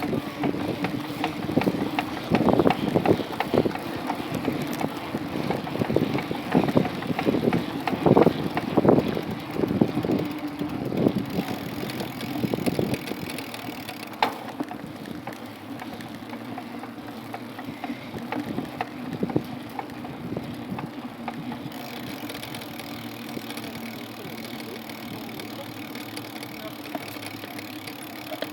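Riding noise from a bike, with irregular rattling and knocking for the first dozen seconds or so. It then settles into a quieter, steady rolling sound.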